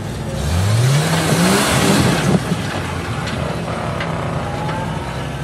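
Off-road 4x4's engine revving hard, its pitch climbing steeply for about a second and a half, with a loud rush of noise at the peak and a few sharp knocks afterwards.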